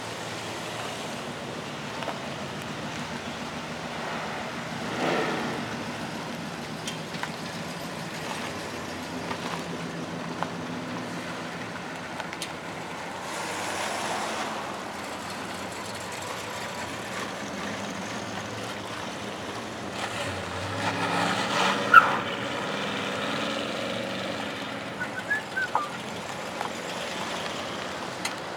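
Classic American cars driving slowly past one after another, each engine running at low revs and swelling as it passes, then fading. The loudest pass comes about three-quarters through, with a brief sharp sound at its peak.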